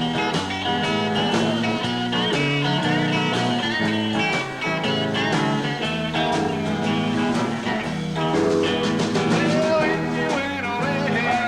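A live rock band playing a number: guitars, bass guitar and drums, with bending guitar notes over a steady beat.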